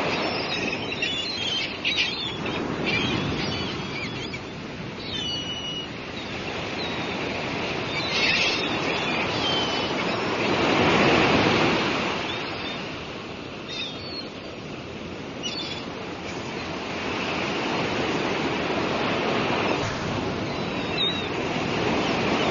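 Sea waves washing in and out, swelling loudest about halfway through, with gulls giving short calls every few seconds over the surf.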